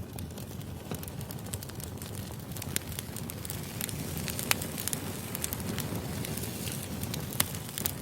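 Wood fire crackling steadily with a low rumble, scattered small pops and two sharper pops, one about halfway through and one near the end.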